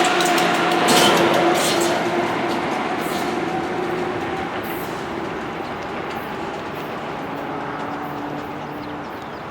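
A train passing on the line, its wheels clicking over rail joints with a steady humming tone. The sound fades steadily as the train moves away.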